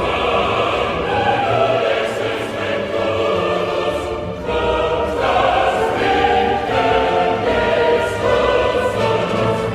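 Music with a choir singing long held chords that change every second or so.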